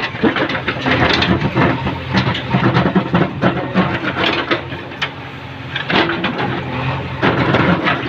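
Diesel engine of a JCB excavator working under load, with the bucket repeatedly clattering and scraping through soil mixed with broken building rubble.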